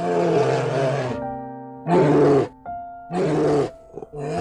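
Brown bear roaring, one long roar followed by two shorter ones about a second apart and a fourth starting near the end. Steady held music tones fill the gaps between the roars.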